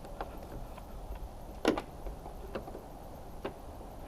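Scattered small clicks and knocks of a spotlight mount and its screws being handled and fitted, with one sharper click about a second and a half in.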